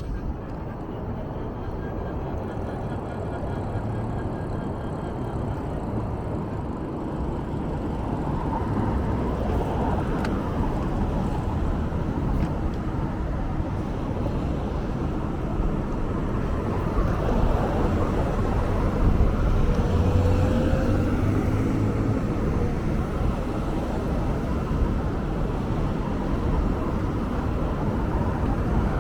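Vehicle driving, a steady low rumble with road noise that slowly grows louder, with a faint short pitched sound about twenty seconds in.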